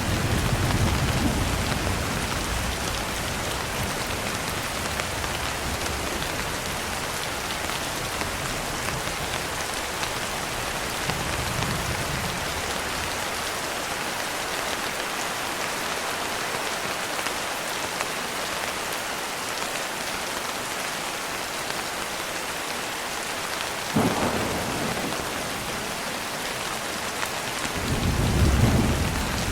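Steady rain falling, with thunder rumbling low in the first couple of seconds and again faintly near the middle, a sharper clap about 24 seconds in, and a louder rolling rumble near the end.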